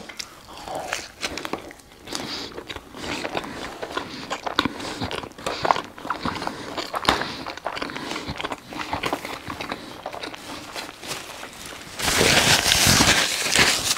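Close-miked chewing of a hamburger, with wet mouth clicks and smacks. About twelve seconds in, a much louder plastic crinkling and tearing begins as a plastic cutlery wrapper is torn open.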